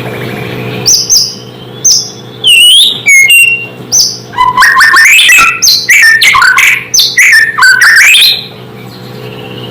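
White-rumped shama (murai batu) singing: loud, sharply rising and falling whistled notes come in separate phrases from about a second in, then pack into a rapid run before stopping a little after eight seconds. A steady low hum runs underneath.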